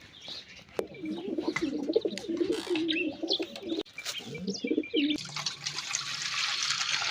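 Pigeons cooing, a low wavering coo repeated for about four seconds. About five seconds in, a steady rushing noise like running water starts.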